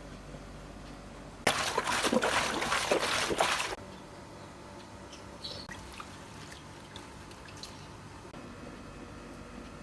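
Water splashing and pouring out in a rush for about two seconds, cutting off suddenly, followed by a few faint drips.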